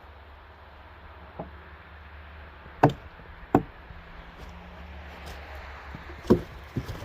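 Logs knocking and thudding against one another: five sharp wooden hits, the two loudest about three and three and a half seconds in and another near six seconds, over a low steady hum.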